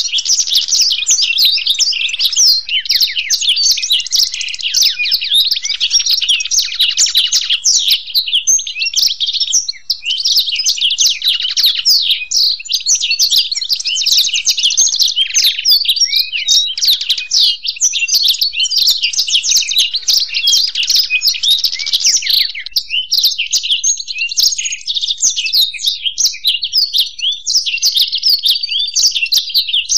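A blackthroat (black-throated canary) and a European goldfinch singing together: an unbroken stream of fast, high twittering chirps and trills with no pauses.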